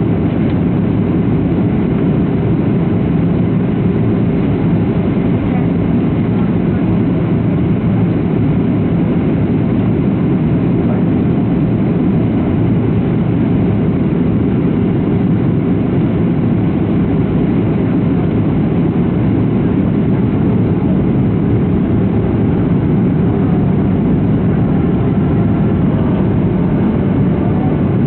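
Steady, loud cabin roar of a Boeing 737-700 jet airliner, its CFM56-7B engines and the airflow over the fuselage heard through the cabin at a window seat, holding an even level throughout.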